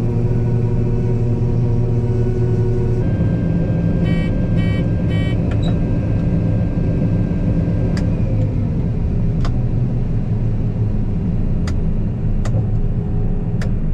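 Farm machine's engine running steadily, its note shifting about three seconds in. Three short electronic beeps sound around four to five seconds in, and a few sharp clicks come later.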